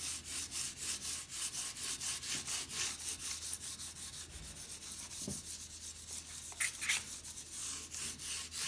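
Fine sandpaper rubbed back and forth over the painted steel tube of a vintage bicycle frame, about three to four strokes a second, the strokes turning softer and smoother for a couple of seconds in the middle. It is wet-or-dry paint restoration, sanding back the worn blue paint.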